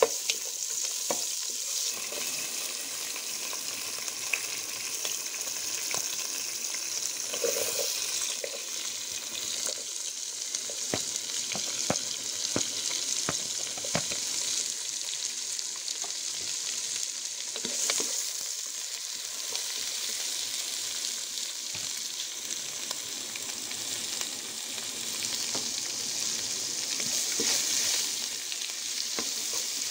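Oil sizzling in a pot as sliced ginger and garlic fry with bay leaves and cinnamon, stirred with a wooden spatula that knocks against the pot now and then. Sliced onions go in midway and the frying carries on.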